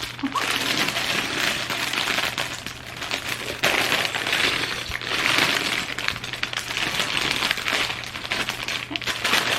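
Small plastic Lego pieces clattering and clicking against each other while bags of parts are rummaged through, with crinkling of plastic bags.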